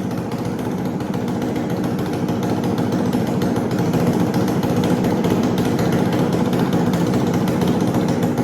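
2009 Honda CRF250's single-cylinder four-stroke engine running after a top-end rebuild with a new piston and adjusted valves. It grows a little louder over the first few seconds, then runs steadily.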